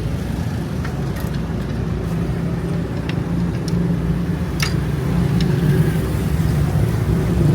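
An engine running steadily with a low rumble, getting a little louder in the second half, with a few sharp clicks over it.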